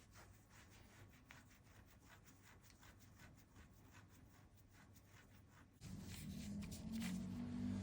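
Faint light tapping and rubbing on paper, several small strokes a second. About six seconds in, music starts and grows louder.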